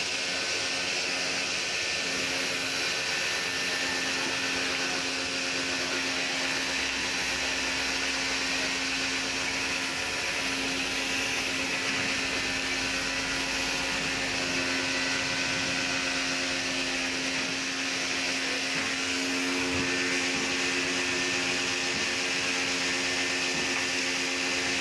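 A motor-driven machine running steadily, with a constant hum and a strong even hiss.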